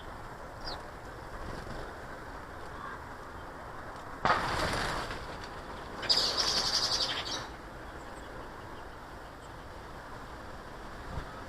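Garden birds at a feeder: a couple of faint high chirps, then two short loud flurries of bird sound about four and six seconds in, the second higher and buzzier, over a steady outdoor hiss.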